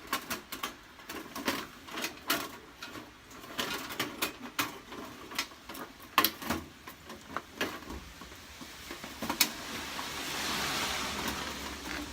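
Sheet-metal parts of a folding wood stove being pushed together by hand, with repeated light metallic clicks and knocks as the chimney pipe is inserted and seated. From about nine seconds in there is a steady scraping hiss of metal sliding on metal as the pipe is worked into a snug fit.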